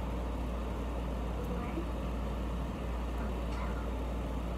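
Steady low background hum, with faint chewing and mouth sounds from eating soft tacos.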